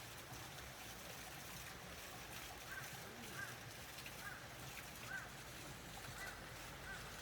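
Faint short chirps from a bird, repeating about once a second from a few seconds in, over a low outdoor background hum.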